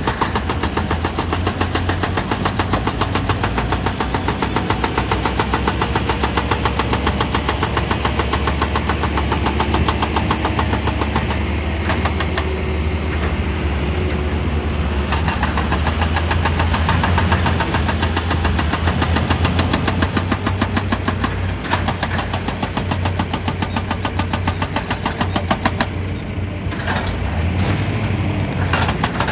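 Excavator running under load, a steady engine hum under rapid, regular knocking.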